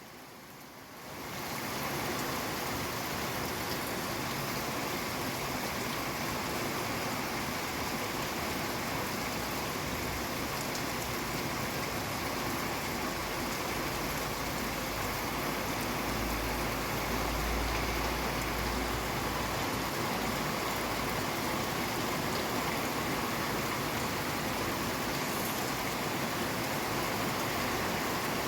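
Steady rain, an even hiss, swelling back in over the first second or two. A low rumble rises under it about halfway through.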